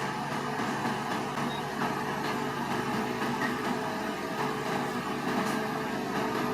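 Bulldozer's diesel engine running steadily, with faint clicks.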